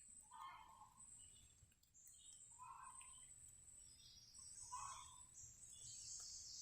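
Faint birdsong in woodland: one short call repeated about every two seconds, with higher, thinner chirps and trills around it that swell near the end.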